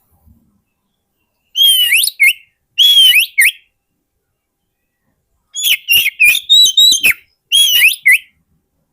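Oriental magpie-robin singing: four short phrases of clear whistled notes that sweep up and down, the third phrase longer and mixed with sharp clicks, with pauses between the phrases.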